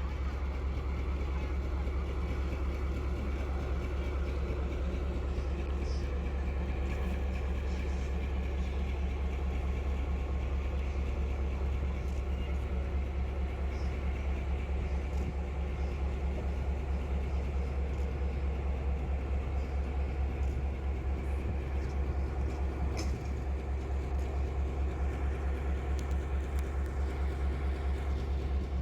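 Train running: a steady low rumble with a fast flutter in loudness and a few faint clicks.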